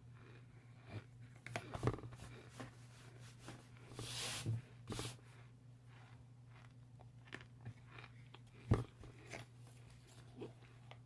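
Close-up chewing of hard, crumbly chunks: irregular crisp crunches in the mouth, with a louder hissing crunch about four seconds in and a sharp single crunch near the end. A steady low hum runs underneath.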